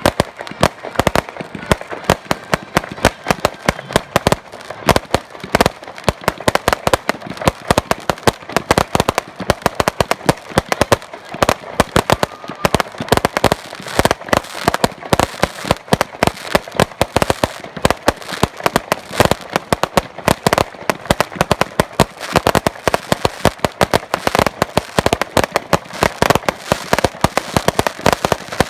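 Fireworks display going off in a dense barrage: rapid, overlapping bangs and cracks, several a second, without a break.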